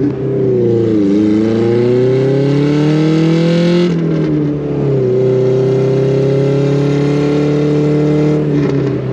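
Honda Civic engine accelerating: revs dip briefly about a second in, then climb for about three seconds. There is a gear change about four seconds in, followed by a steadier pull in the next gear and a short dip in revs near the end.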